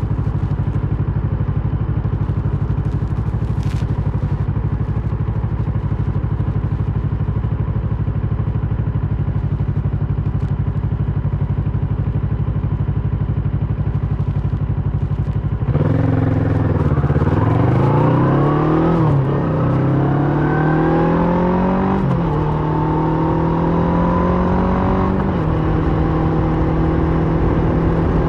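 Kawasaki Versys 650 parallel-twin engine through a Mivv slip-on exhaust, running at a steady note for the first half. About two-thirds of the way in it pulls away, the revs rising and dropping through several gear changes, then it settles into a steady cruise.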